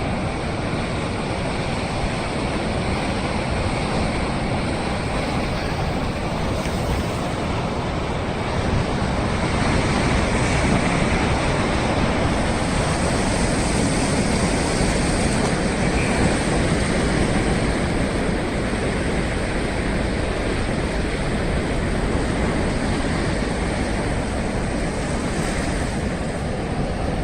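Sea waves surging and breaking against coastal rock, a continuous rushing that swells louder for several seconds about a third of the way in.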